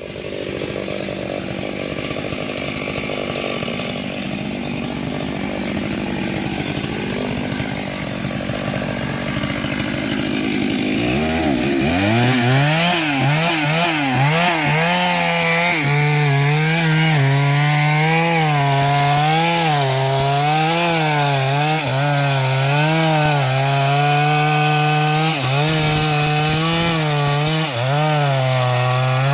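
Stihl MS382 two-stroke chainsaw cutting into a large sengon trunk. For the first ten seconds or so it is mostly a rough, rising noise. After that a steady engine note comes through, its pitch dipping and recovering about once a second as the chain loads in the cut.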